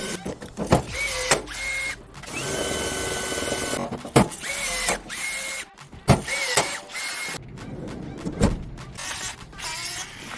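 A small electric power tool motor starting and stopping in about five short bursts. Each whine rises quickly in pitch and then holds steady. Clicks and knocks come in between.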